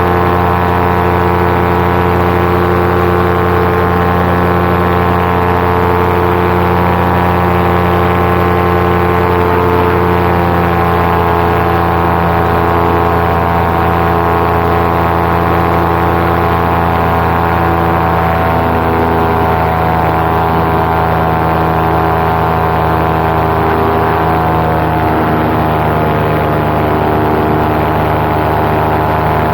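Paramotor engine and propeller running steadily at cruise power in flight, a loud, even drone whose pitch wavers slightly in the second half.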